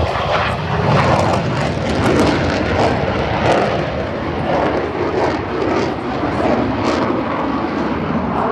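Fixed-wing airplane engine noise at an airshow, loud and steady with small swells in level.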